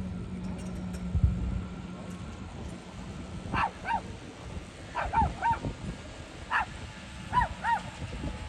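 An animal giving short, high, arching yelps, mostly in pairs, about eight in all, starting about three and a half seconds in. Before them a low steady hum and one thump.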